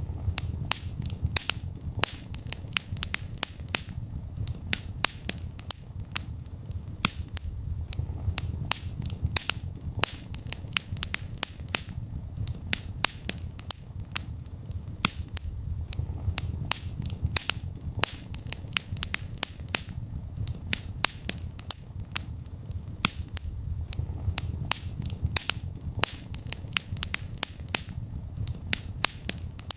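Wood fire in a fireplace crackling, with frequent sharp pops over a low steady rumble of the flames.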